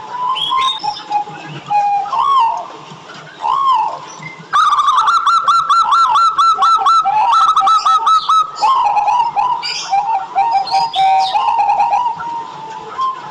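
Zebra dove (perkutut) cooing: rolling, arched coos, with a louder run of quickly repeated notes starting about four and a half seconds in and lasting about four seconds, then more coos.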